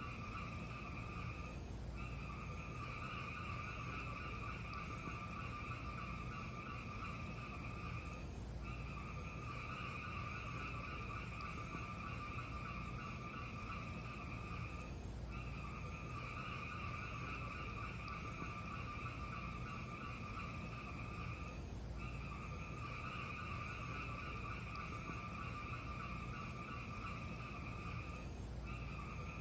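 Fireplace sound track: a steady rushing hiss over a low rumble, its higher part breaking off briefly about every six to seven seconds, with little distinct crackling.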